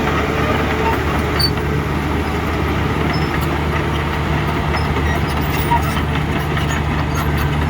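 Heavy diesel engine of earthmoving machinery running steadily at an even speed, with a constant low drone.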